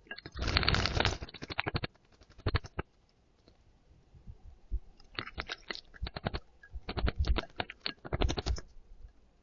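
A bird bathing in a shallow terracotta bowl of water, splashing and flicking its wings in several quick bursts with short pauses between.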